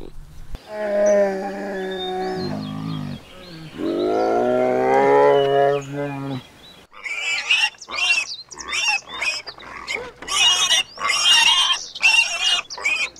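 Brown bears making long moaning calls that rise and fall in pitch, then a pig giving many short, high squeals and grunts over the last six seconds.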